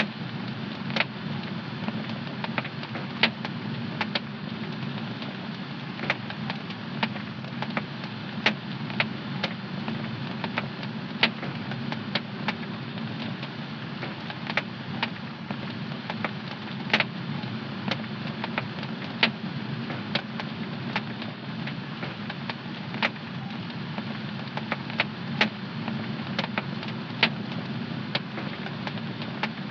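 Wood fire in a home fireplace crackling: irregular sharp pops over a steady low rushing.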